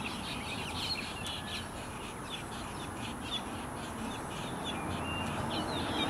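A bird calling: a run of short high notes, several a second, with a few brief rising notes mixed in, over a steady low background noise.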